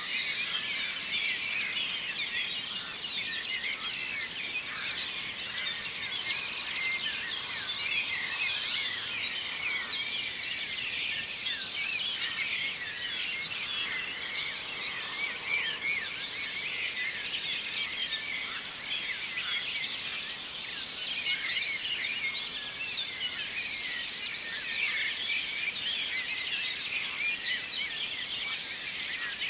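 Morning dawn chorus: many songbirds singing at once, a dense, unbroken tangle of short high chirps and trills.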